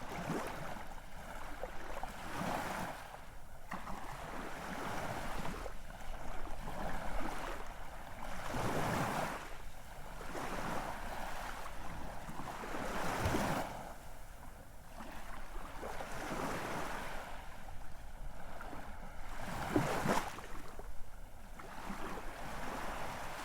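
Ocean waves breaking and washing ashore, the surf swelling and fading in surges every few seconds.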